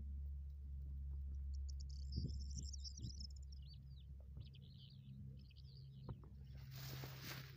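Small birds chirping in a quick twittering run over a steady low wind rumble on the microphone, with a few soft knocks. A rush of wind or rustling grass swells near the end.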